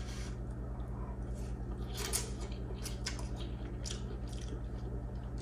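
A person chewing a mouthful of noodles, with scattered soft mouth clicks and smacks, over a steady low electrical hum.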